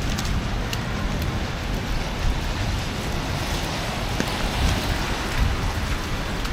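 Steady wet hiss of a city street in a snowstorm, with falling wet snow and slush, over a continuous low rumble.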